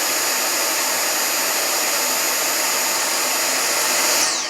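Dyson cordless hand vacuum running with a steady high whine, then cutting out near the end, its motor pitch falling as it spins down. It switches off after a few seconds because its worn battery can no longer hold up the load.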